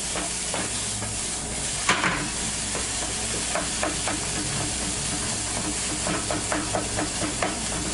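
Finely chopped soffritto (onion, carrot and celery) sizzling in a frying pan while a wooden spatula stirs it, with frequent light scrapes and a louder scrape about two seconds in. The sizzle has the high, bright edge that marks the vegetables as cooked down and done.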